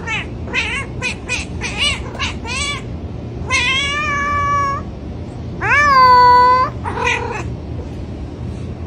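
Domestic cat meowing: a quick run of short meows, then two long drawn-out meows, the second the loudest, and one more short meow near the end, over a steady low hum.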